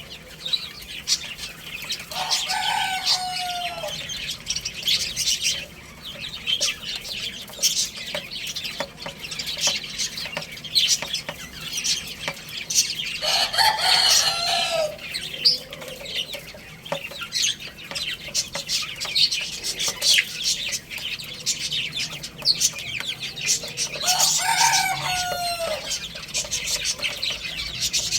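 Rooster crowing three times, each crow about two seconds long and ending on a falling note, spaced roughly ten seconds apart. Chicks cheep with rapid, high, short peeps throughout.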